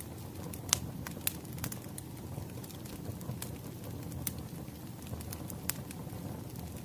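Wood fire crackling: a steady low rumble of burning logs with irregular sharp pops, the loudest just under a second in.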